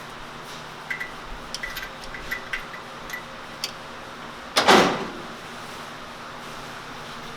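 Light metallic clinks and ticks of parts being handled, then about four and a half seconds in a single short, loud swish that fades within half a second.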